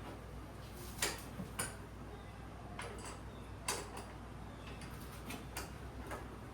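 Irregular sharp clicks and light knocks, about eight in a few seconds, from hand work on the installation, over a low steady hum.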